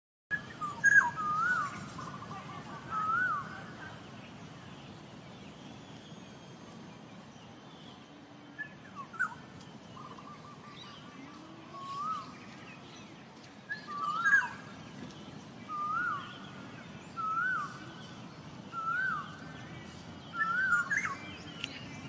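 A bird calling with short whistled notes that rise and fall: a few near the start, then one about every second and a half in the second half. A steady high hiss runs underneath.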